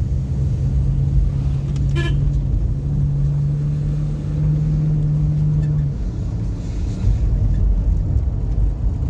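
Car driving, with road rumble and a steady low engine drone that stops about six seconds in. A short horn toot sounds about two seconds in.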